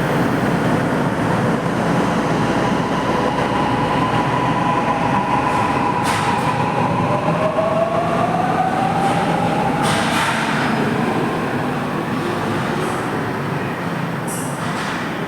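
Toei Mita Line subway train running, heard from inside the car: a steady rumble of wheels and running gear with a held whine, and a second whine that rises over a few seconds in the middle. Two brief sharp knocks come about six and ten seconds in.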